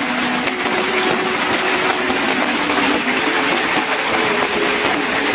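Heavy rain pouring down in a steady, dense hiss, with a faint steady hum beneath it.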